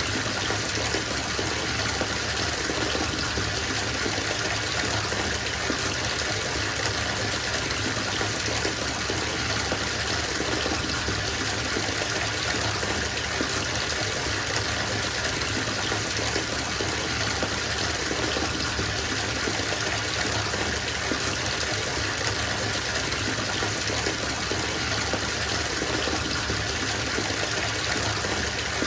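Bathtub filling from the tap: a steady gush of running water pouring into the tub, unchanging throughout.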